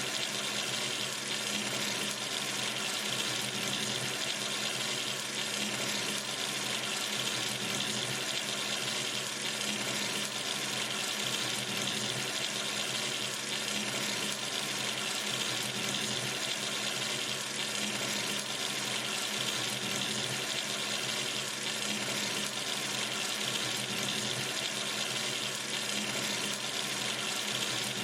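Water running steadily from a sink tap into the basin, an even splashing hiss that never changes.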